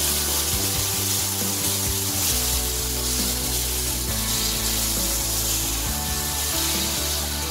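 Semolina roasted in hot ghee sizzling and bubbling as water is added to the pan, under background music with long held chords.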